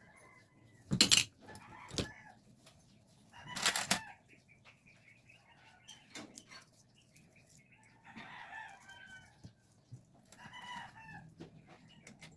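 Chickens clucking, with short calls scattered through. Two loud sharp knocks stand out, about one second in and again near four seconds.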